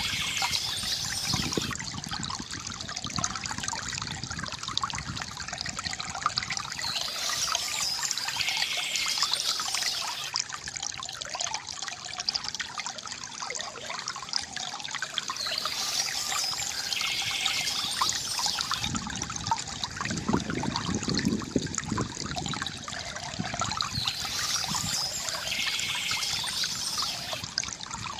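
Water trickling and gurgling steadily from a bamboo fountain spout, with birds chirping in bursts that come back about every nine seconds.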